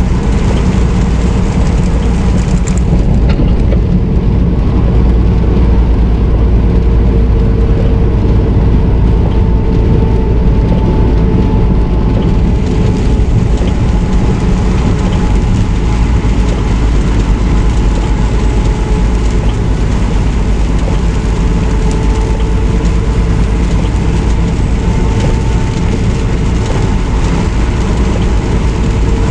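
Semi truck under way: steady engine and road noise, mostly a deep rumble with a faint steady hum on top.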